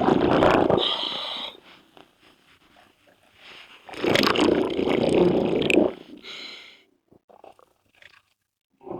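A scuba diver breathing through a regulator: two long bursts of exhaled bubbles about four seconds apart, each followed by a short hiss as the diver draws the next breath.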